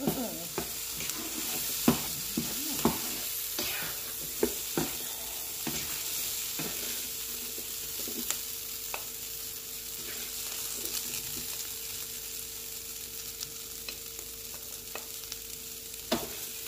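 Diced potatoes, peppers and onions sizzling in an electric skillet while a silicone spatula stirs and scrapes them against the pan. Sharp taps of the spatula come often in the first several seconds and only now and then after, over a steady sizzle.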